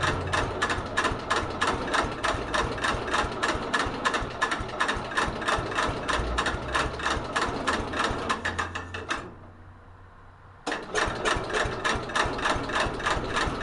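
1964 Cub Cadet 70 garden tractor engine cranking on its starter in a cold start, turning over in a fast, even chug without catching. There are two cranking attempts, with a pause of about a second and a half between them, about nine seconds in.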